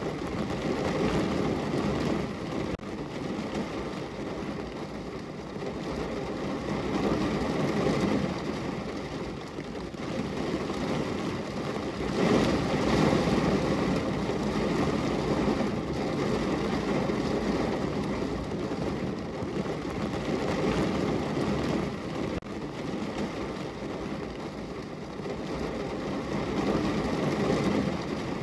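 Rain falling on a window pane, a dense steady hiss over a low rumble that swells and eases every few seconds.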